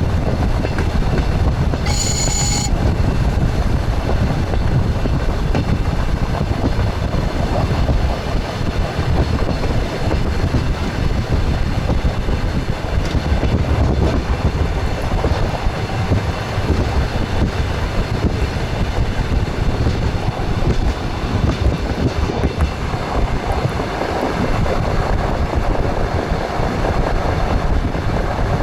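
Express train running, heard from inside its front cab: a steady rumble of the running gear and the clatter of wheels on the rails. About two seconds in there is a brief pitched signal tone lasting about half a second.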